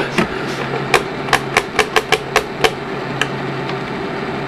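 Control buttons on a Betacam VCR pressed again and again, about nine quick sharp clicks over a couple of seconds and one more a little later, over the steady hum of the running deck. The deck is stuck in audio dub mode and won't come out of it.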